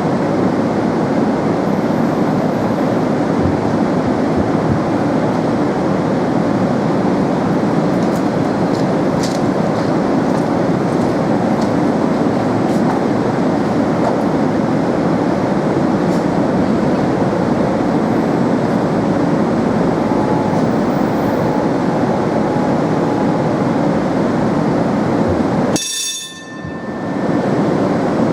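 Manyosen tram running, a steady, continuous rumble of wheels on rail and traction noise. The sound dips briefly near the end, with a few short high tones.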